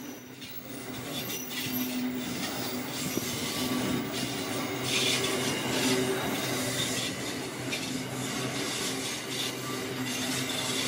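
Freight train of coal hopper wagons rolling past close by: a steady run of wheel-on-rail and wagon noise, turning brighter and hissier about five seconds in.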